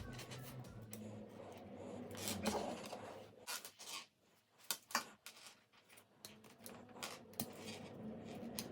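Faint handling of LEGO Technic plastic parts: scattered small clicks and light rubbing, with the last of a musical tone dying away in the first second.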